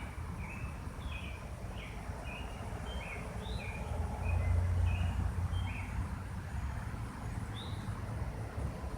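A small bird chirping over and over in short, quick notes, over a low rumble that swells for a couple of seconds about four seconds in.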